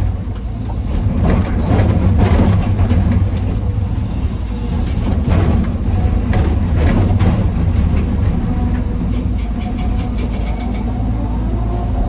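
Heavy diesel machinery running with a loud, steady low drone while andesite stones are dropped into a steel dump-truck bed, giving clattering impacts in several bursts and a quick run of smaller clicks near the end.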